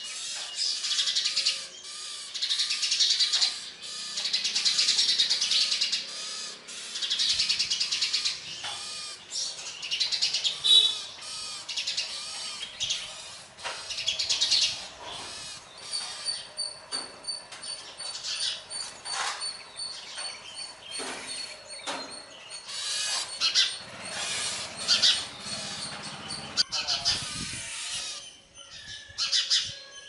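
Small birds chirping in rapid, repeated bursts of high notes, with short pauses between bursts.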